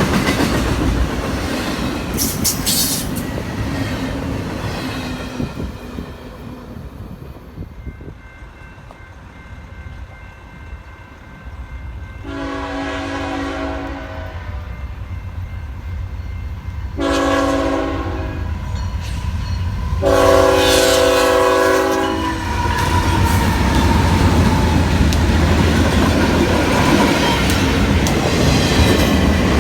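A train rumbles past and fades. Then a locomotive's air horn sounds three chord blasts, long, short, long. Right after, a train passes close by, its wheels rumbling and clacking on the rails.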